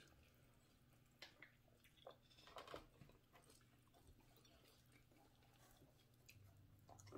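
Faint chewing of a chicken wing: a few soft mouth clicks and smacks in the first three seconds, then near silence.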